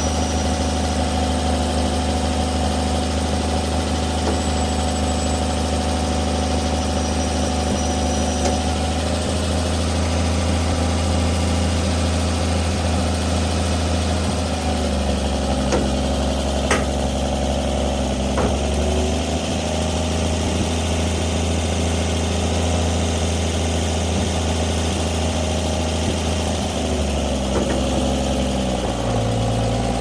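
Winch truck's engine running steadily at idle, its speed shifting a few times, with a couple of sharp clicks about halfway through.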